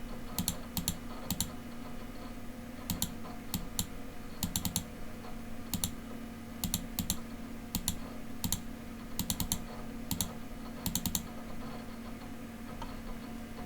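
Sharp, irregular clicks of computer controls, often in quick pairs or short runs, as chess moves are clicked through on screen. A faint steady hum sits underneath.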